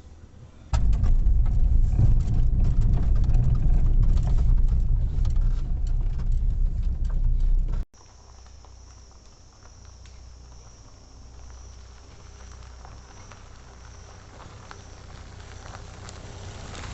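A loud low rumble with scattered clicks for about seven seconds, then a sudden cut to a quieter stretch where an insect sings in a high, evenly pulsing tone.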